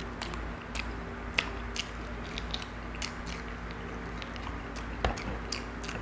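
Close-up eating sounds of a person biting and chewing chicken-pork adobo held in his fingers: wet mouth smacks and sharp clicks every third to half second, over a steady low hum.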